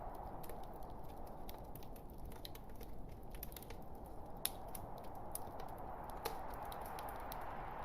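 Log fire burning with a steady low hiss and frequent, irregular sharp crackles and pops, one louder pop a little past the middle.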